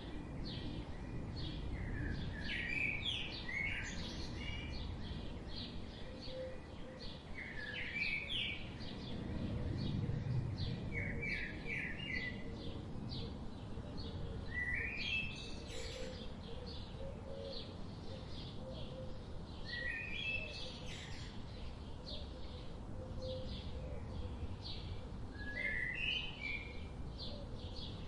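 Songbirds chirping outdoors, with short twittering phrases repeating every few seconds over a steady low background rumble.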